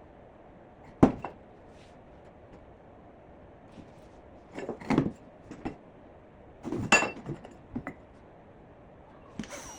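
Irregular knocks and clinks of hard objects being handled and set down, about half a dozen, the sharpest about a second in and around the seven-second mark.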